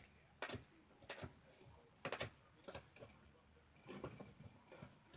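Faint, irregular scratching and tapping of a pet bird pecking, chewing and digging at a carpet rug, a soft click or scrape every half second or so.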